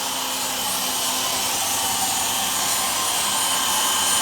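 Power drill running steadily under load, boring holes through the steel frame rail and floor pan.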